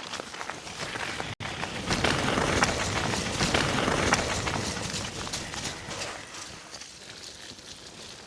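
Mountain bike riding over a wet trail: a steady rush of tyre, spray and wind noise, full of rattling clicks from the bike. It grows louder about two seconds in and eases off over the last few seconds.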